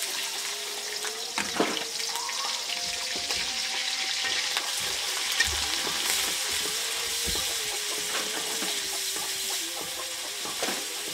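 Prawns sizzling in hot oil in a metal karahi, with a wooden spatula scraping and knocking against the pan as they are stirred.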